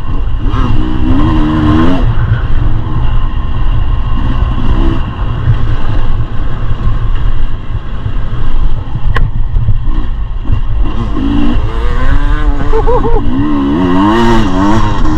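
Two-stroke engine of a 2023 Beta 300 RR Race Edition enduro motorcycle being ridden, its pitch rising and falling as the throttle is worked, over a constant low rumble. The revving is busiest in the last few seconds.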